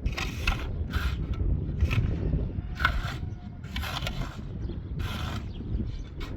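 Repeated rasping scraping strokes from hand work, roughly one a second, over a low rumble.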